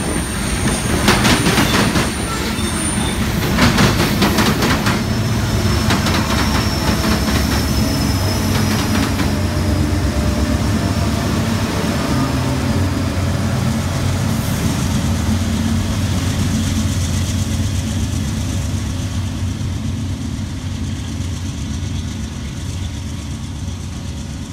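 Freight train passing close by: covered hopper cars clatter over the rail joints at first, then the train's diesel pusher locomotives go by with a steady low engine drone that fades as the train pulls away.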